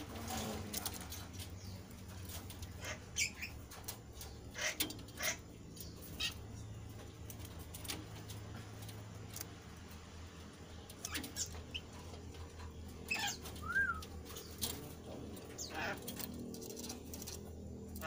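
A caged kasu-kasu bird fluttering its wings and hopping, with scattered short chirps and clicks and one brief rising-then-falling note in the last third; a low steady hum underneath.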